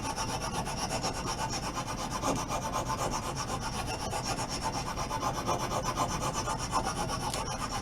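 Fine side of a two-sided rasp being worked over hard walnut, a continuous even rasping with no pauses as it takes down the wood.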